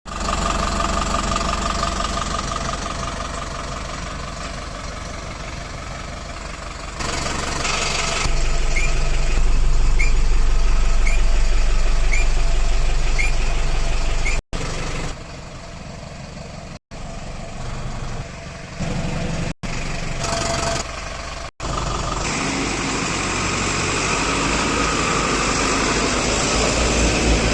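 Tata LPT 709 truck's diesel engine running, cut off abruptly several times in the middle.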